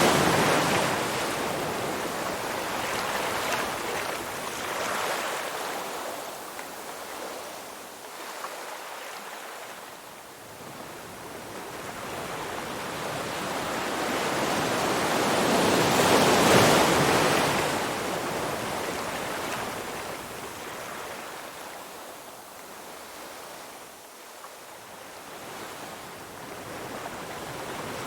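Ocean waves breaking and washing up on a shore, swelling to a loud crash at the start and again about sixteen seconds in, with quieter lulls between as the water draws back.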